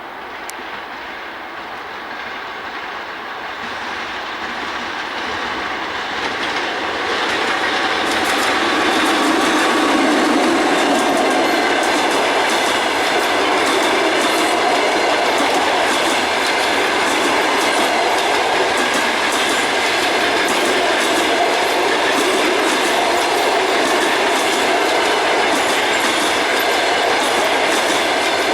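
EP2K DC electric locomotive and its passenger coaches approaching and passing, growing louder over the first eight seconds or so. It then holds at a steady loud rumble, with a rapid clickety-clack of wheels over the rail joints as the coaches go by.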